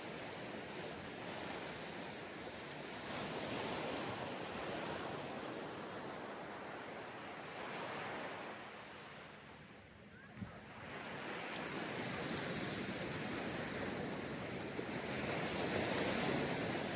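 Sea waves breaking and washing up a sandy beach, the surf swelling and ebbing, falling to a lull about ten seconds in before building again. A single brief click comes during the lull.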